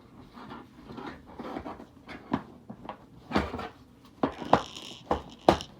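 A plastic toy casing being handled: light rustling and about half a dozen sharp clicks and knocks, most of them in the second half.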